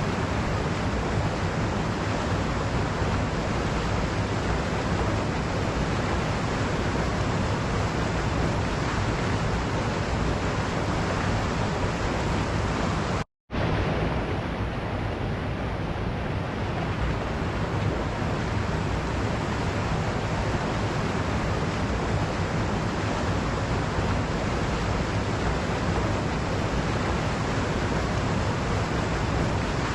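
Waterfall: a steady, even rush of falling water. The sound cuts out completely for a split second about halfway through, then resumes unchanged.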